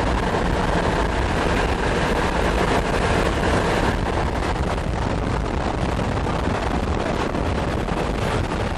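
Steady rumble and hiss of a car driving, with wind noise on the microphone.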